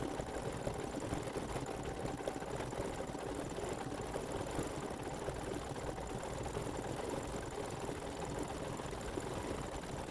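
Embroidery machine stitching out a design, running steadily.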